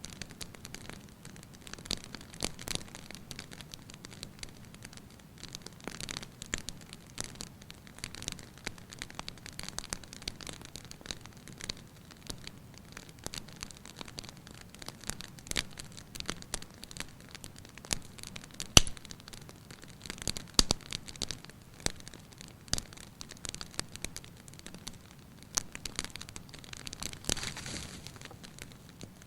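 Fire burning in a fireplace, crackling: irregular snaps and pops over a soft hiss, with one sharper, louder pop about two-thirds of the way through.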